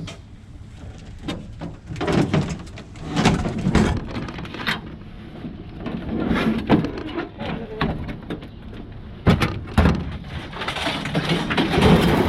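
Irregular metal knocks, clanks and scraping as heavy scrap is handled and moved, with a louder jolt about nine seconds in and a longer spell of scraping near the end.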